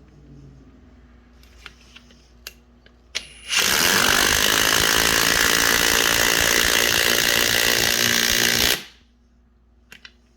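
Metabo HPT 36V triple hammer impact driver in power mode, hammering a 3/8-inch by 3 1/2-inch lag screw into a wood block. A few small clicks come first; then, about three and a half seconds in, the driver hammers rapidly and continuously for about five seconds and cuts off suddenly.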